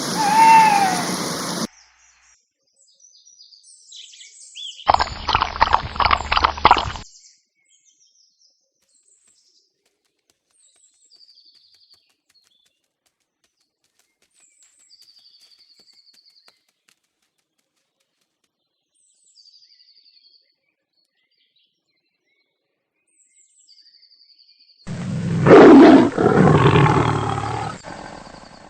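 A tiger roaring twice: a short pulsing growl-roar about five seconds in, and a longer, louder roar near the end. Faint, scattered bird chirps fall in between.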